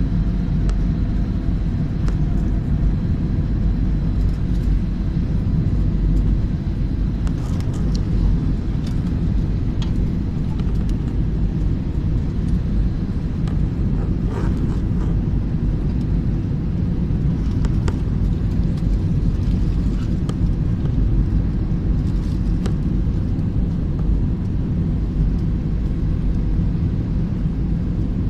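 Airliner cabin noise on a landing approach in strong, gusty wind: a steady low rumble of engines and rushing air, with a few brief clicks and rattles.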